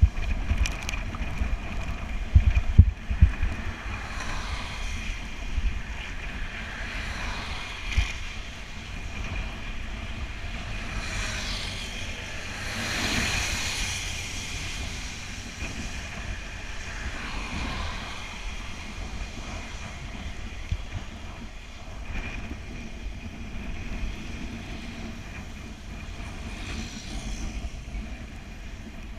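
Wind buffeting the microphone on a moving bicycle in the rain, over a steady hiss of wet road. A vehicle swishes past about thirteen seconds in, and another near eighteen seconds.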